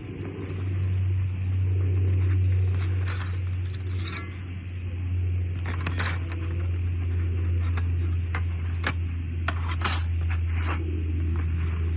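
Crickets trilling steadily in an autumn forest, a continuous high buzz, with a few sharp clicks and a steady low rumble underneath.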